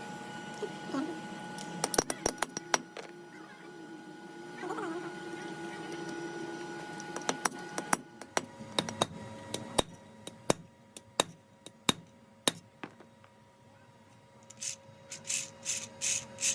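Scattered sharp metallic clicks and taps from tools and metal parts being handled at a workbench, over a faint steady hum. Near the end, a quick run of short raspy strokes, about three a second.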